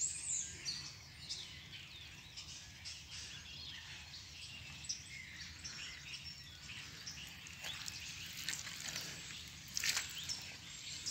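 Songbirds chirping and singing over a steady woodland background, with a few short knocks near the end.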